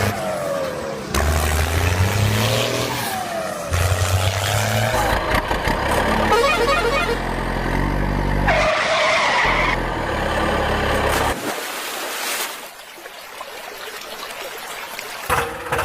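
A quick succession of vehicle-like sound effects that change every second or two: pitched tones, gliding notes and a short bright hiss about nine seconds in. The sound drops quieter about twelve seconds in.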